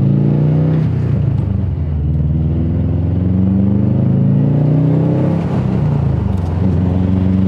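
Turbocharged Subaru engine accelerating hard through the gears, its pitch climbing and then dropping back at each shift, with its exhaust stuffed with whistle inserts that choke the flow.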